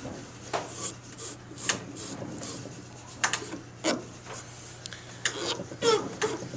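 Cloth rag rubbing finish into a turned wooden ornament, in short, irregular scratchy rubbing strokes, with a steady low hum underneath.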